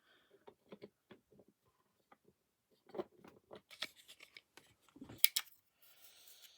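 Small clicks and scrapes of plastic model-locomotive parts being handled and fitted by hand, with a sharper pair of snaps about five seconds in.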